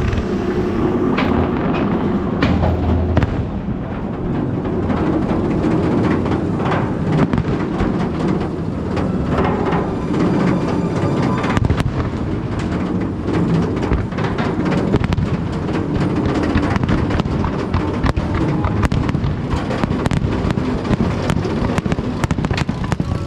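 Fireworks finale: many bangs and crackles in quick, overlapping succession, heard from a roller coaster ride.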